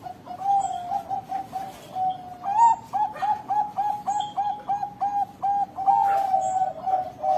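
Zebra dove (perkutut) cooing: a few coos, then a rapid run of repeated notes at about four a second, ending in a longer drawn-out final note.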